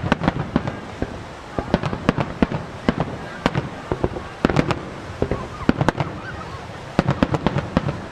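Japanese starmine fireworks finale: aerial shells bursting in a rapid barrage, several sharp bangs every second with crackling between.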